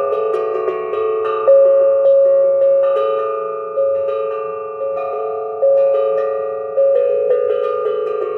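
Steel tongue drum playing an Irish tune, a run of struck notes that ring out like a bell and overlap one another as the drum sits on a flat table surface, which lets it resonate rather than muffling it.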